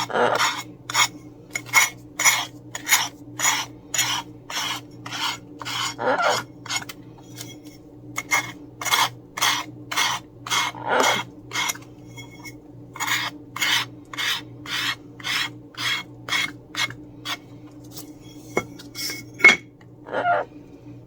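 Sanding block rasping in short back-and-forth strokes, about two a second, along the edges of napkin coasters to take off the overhanging napkin, with a couple of brief pauses.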